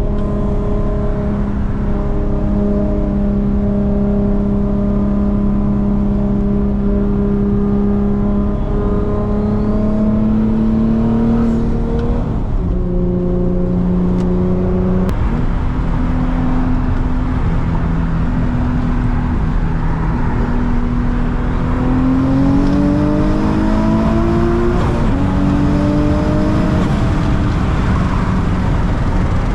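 Twin-turbocharged 2006 Nissan 350Z's VQ35DE V6 engine running at an even cruise over road noise. Its note holds steady for long stretches, drops about twelve seconds in, and later climbs slowly and falls back.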